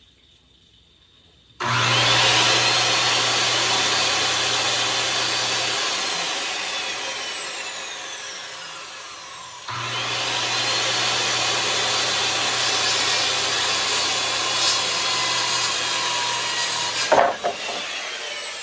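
Electric power saw cutting through wood boards, running twice in quick succession. Each run starts with the motor's whine rising as it spins up, and the second ends with a sharp clatter near the end.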